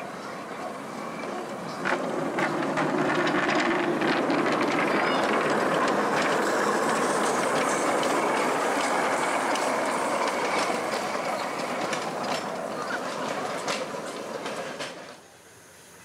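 Miniature steam train running past close by: a steady rumble of steel wheels on the rails with many quick clicks over the rail joints. It swells about two seconds in, stays loud while the locomotive and cars go by, and cuts off suddenly near the end.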